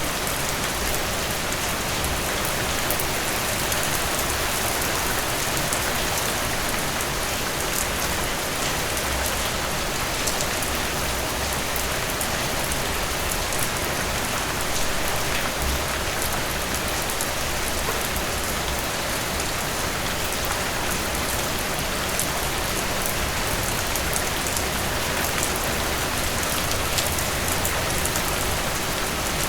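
Heavy rain falling steadily, dense with sharp drop impacts, over a low uneven rumble.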